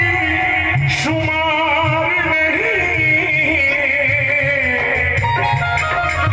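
Qawwali music played loud over a sound system: a voice singing long, wavering held notes with a heavy low beat pulsing underneath.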